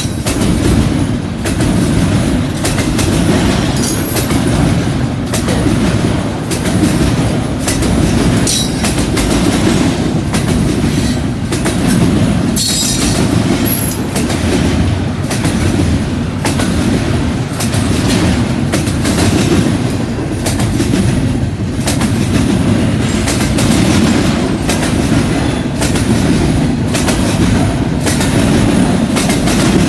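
Freight train cars rolling past, a steady low rumble with wheels clicking rhythmically over rail joints and the junction switch. Brief high wheel squeals come a few times, around 4, 8 and 13 seconds in.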